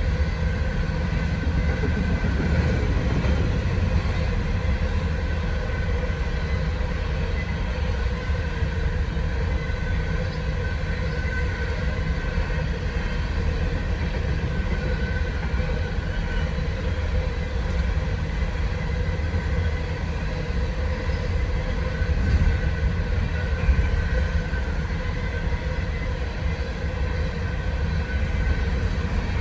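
Empty BNSF coal train rolling past at speed: a steady rumble of wheels on rail from the empty coal cars, with thin steady ringing tones above it.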